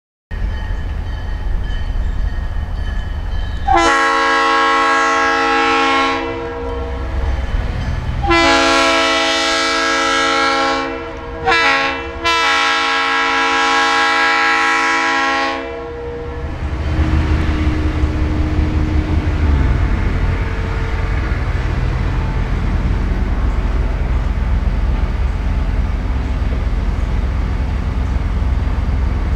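EMD diesel locomotive sounding its multi-chime air horn in the long, long, short, long grade-crossing pattern, over the steady rumble of its diesel engine.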